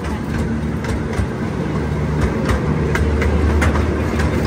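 Zoo train riding along the track: a steady low rumble of the cars, with scattered sharp clicks of the wheels over the rails.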